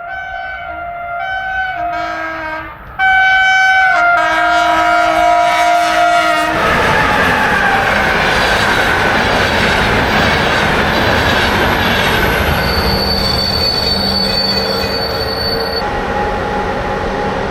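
Train horn sounding in a run of blasts that step between pitches, then a train passing close and loud with the rush and rumble of wheels on rail. A high steady wheel squeal sounds for about three seconds near the end.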